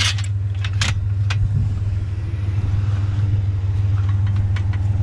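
Pickup truck engine running through Flowmaster mufflers, a steady low exhaust drone. A few light clicks or jingles come in the first second and a half.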